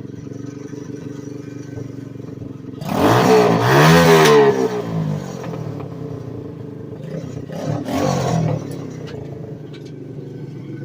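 Dirt bike engine idling, then revved hard about three seconds in, its pitch rising and falling back over a couple of seconds, with a second, shorter rev about eight seconds in before it settles back to idle.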